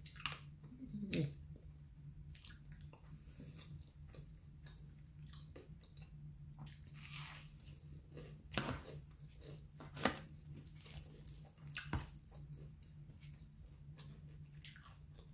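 Close chewing and mouth sounds of a person eating spaghetti, green beans and garlic bread, with scattered short clicks and a few louder sharp ones. A steady low hum runs underneath.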